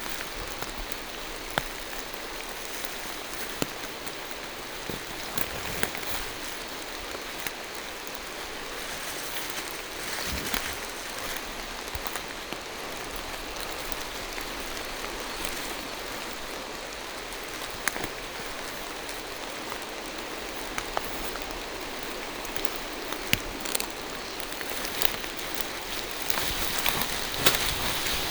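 Steady rain falling through forest trees, with the sharp taps of single drops landing close by, a few of them louder.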